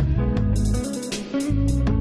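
Chill instrumental background music: guitar over a steady beat with bass and regular hi-hat strokes.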